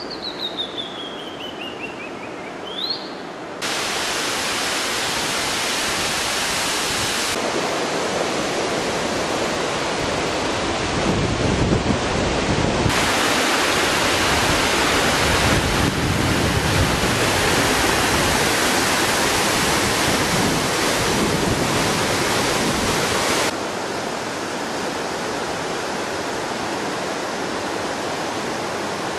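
Roar of the Tamul waterfall, a 100-metre drop: a steady rushing noise that changes level abruptly several times and is loudest through the middle. In the first few seconds, over quieter water, a bird gives a call that slides down in pitch, then a short rising note.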